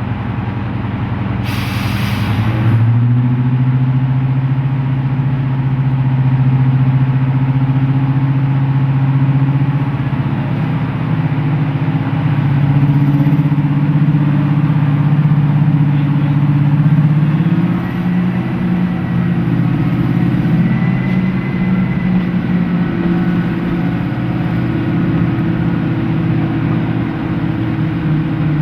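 Class 55 Deltic locomotive's twin Napier Deltic two-stroke diesel engines working under load. The engine note rises sharply about three seconds in as power is opened up, then holds and climbs again in steps later on. A brief hiss is heard just before the rise.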